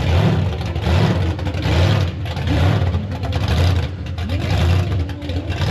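Loud, muddled outdoor car-show noise: a deep booming rumble that swells about once a second, with a haze of crowd and engine sound over it.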